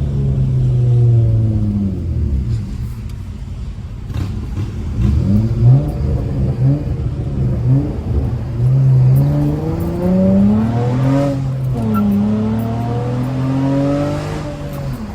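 Straight-piped Honda Accord V6 exhaust under acceleration through a manual gearbox: the engine note climbs in pitch and drops sharply at each gear change, several times, the clearest shifts about 11 seconds in and near the end.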